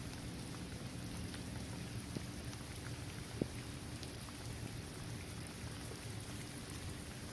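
Steady rain falling on a basketball court, trees and grass, with scattered drops ticking and one sharper drop about three and a half seconds in.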